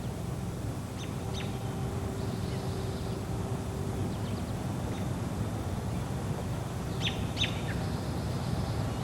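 Short bird chirps, two pairs of quick high calls about a second in and again near the end, over a steady, quiet outdoor background.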